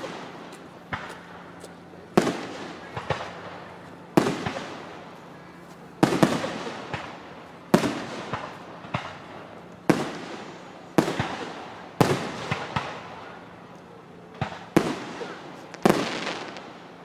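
Aerial firework shells bursting one after another, a sharp bang every second or two, each trailing off into a rolling echo.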